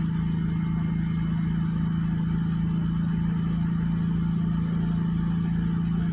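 Steady low mechanical hum that holds one pitch without change, over a faint low rumble.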